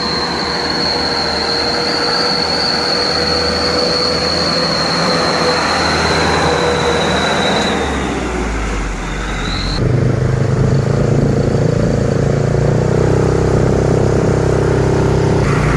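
Trucks on the road: a long, steady high-pitched squeal over vehicle noise for the first eight seconds or so. About ten seconds in, it gives way abruptly to a louder truck engine running close by with a low, steady pitch.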